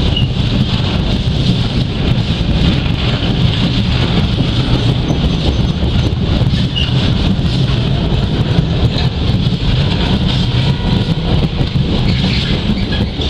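Freight train hauling empty timber wagons, running by with a steady, loud rumble of wheels and wagons and no change in pace.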